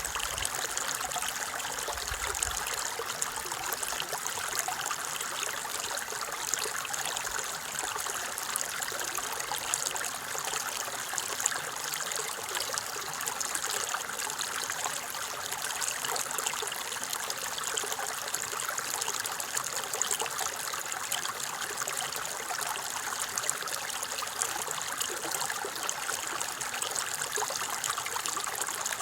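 Small stream running and trickling steadily over stones.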